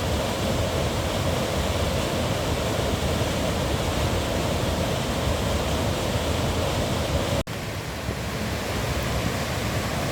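Steady rushing noise, broken by a sudden brief dropout about seven seconds in.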